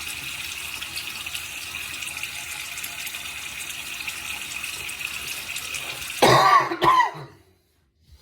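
Sink tap running steadily for about six seconds, then a man coughs twice loudly, and the water stops right after.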